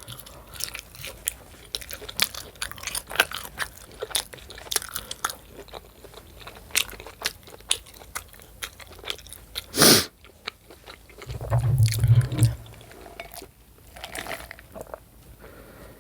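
Close-up chewing of food: many small wet clicks and smacks of the mouth, with one louder sharp smack near ten seconds in and a brief low hum about a second later.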